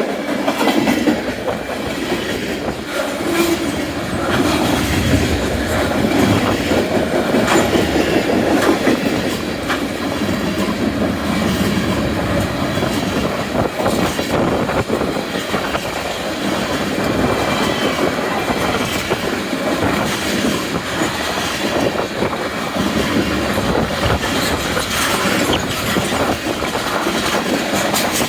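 Canadian National mixed freight train passing close by, its steel wheels clicking over rail joints against a steady running noise, with a faint wheel squeal at times.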